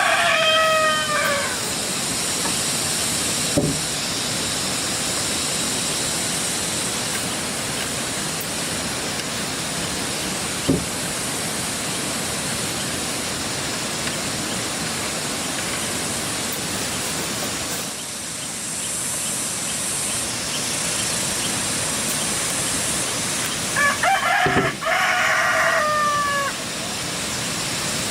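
Rooster crowing twice, once ending about a second in and again near the end, each call falling in pitch at the close, over a steady high hiss, with two short knocks in between.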